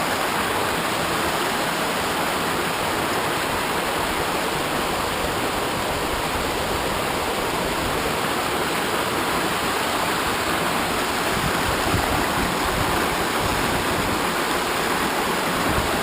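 Rushing water of a stream and waterfall inside a narrow ravine, running steadily with no change.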